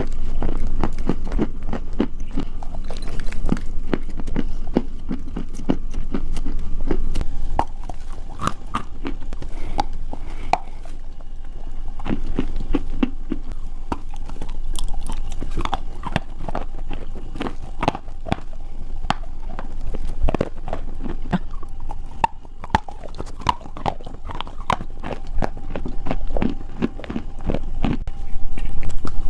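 Dry edible clay being bitten and chewed close to the microphone: a dense, irregular run of sharp crunches and crackles.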